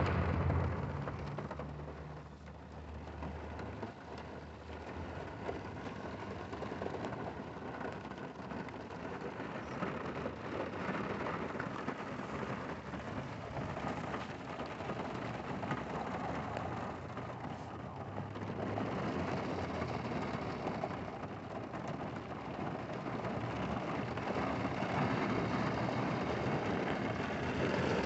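Rain on a moving car's windows and roof, heard from inside the cabin: a steady hiss of rain and wet road over a low rumble from the car. It eases a couple of seconds in and swells gradually toward the end.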